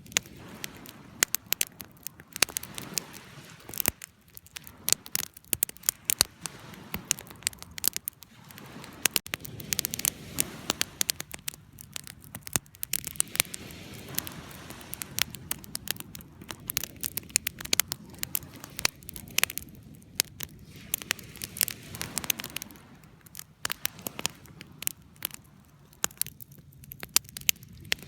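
Wood fire crackling, with irregular sharp pops and snaps from the burning wood over a soft, steady low hiss.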